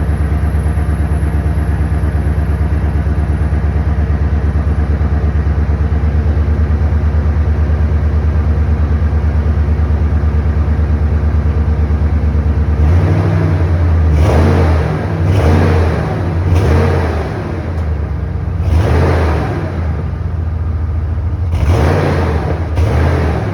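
2003 Ford F-150's 5.4-litre V8, heard at the exhaust, idling steadily on a cold start. About halfway through the throttle is blipped several times, each rev rising and falling back to idle.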